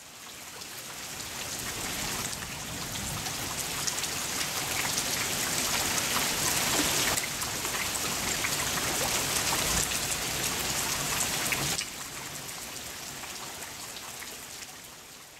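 Steady rain falling on garden plants and mulch, with scattered individual drops. It fades in at the start, drops a little in level about twelve seconds in, and fades out at the end.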